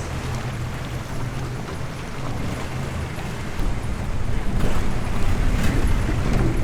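Boat engine running with a steady low drone under a rush of wind and water noise; it gets louder a little past halfway.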